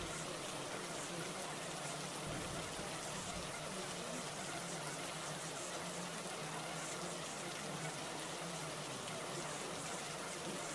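Steady rain ambience, an even hiss of rainfall.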